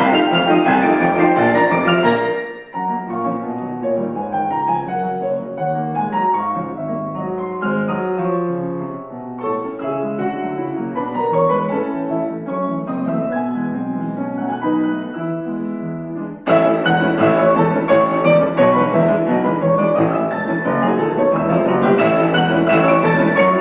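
Piano playing classical music: a loud, full passage gives way to a softer one about two and a half seconds in, then a loud, full texture comes back suddenly about sixteen seconds in.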